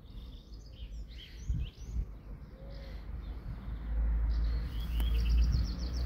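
Small birds chirping and singing, with short calls and a quick trill, over a low steady rumble that grows louder about two-thirds of the way in.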